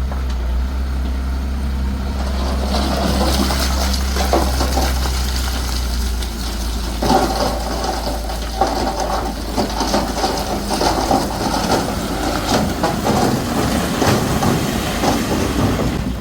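Diesel engine of a heavy earthmoving machine running steadily, with loose soil crunching and rushing as it is pushed or tipped, busier from about halfway through.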